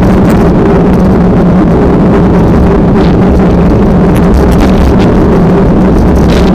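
A steady engine drone running without change, under heavy low wind rumble on the microphone.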